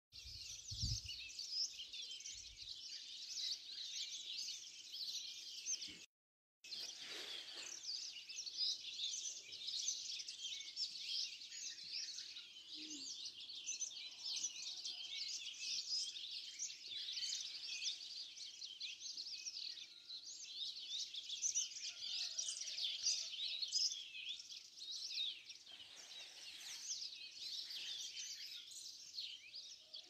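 Early-morning chorus of many birds chirping and trilling at once, a dense high-pitched chatter with no single song standing out. A low rumble sounds near the start, and the sound cuts out for about half a second around six seconds in.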